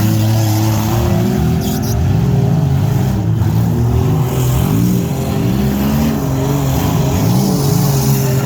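Several demolition derby cars' engines revving at once, their pitches rising and falling over one another above a steady engine drone.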